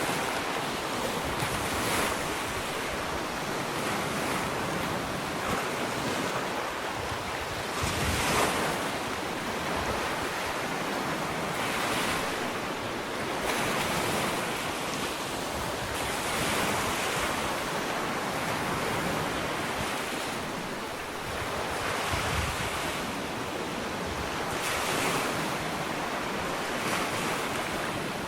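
Ocean waves breaking and washing up a sandy beach, a steady surf with a swell of wash every few seconds, with some wind on the microphone.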